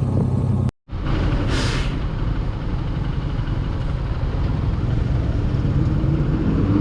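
Honda XR150 single-cylinder motorcycle engine running under way with road and wind noise. It cuts out abruptly just under a second in, then resumes with a brief rising hiss.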